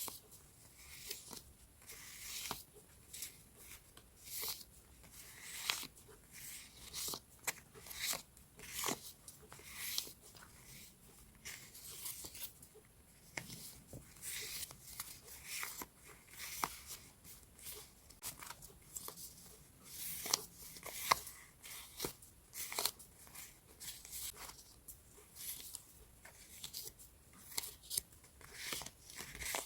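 Paper scrapbooking supplies being handled: sheets rustling and crinkling in short irregular strokes, about one or two a second.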